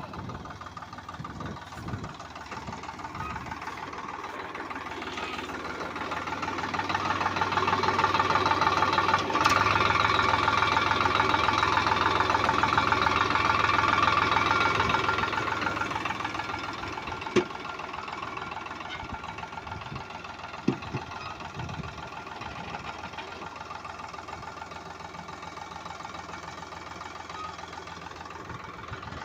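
Diesel engine running steadily, growing louder over several seconds and then fading again, with two sharp clicks later on.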